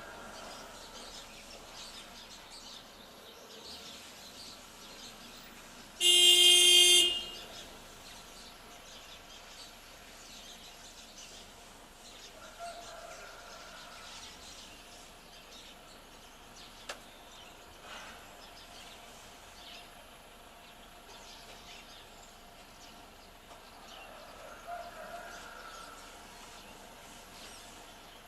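A car horn honks once, loud, for about a second, over faint outdoor ambience with occasional bird chirps.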